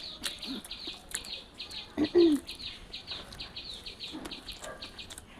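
A bird calling with a fast, even series of short, high, falling chirps, about five a second, that stops near the end. Scattered sharp clicks of eating run through it, and there is a short low sound about two seconds in.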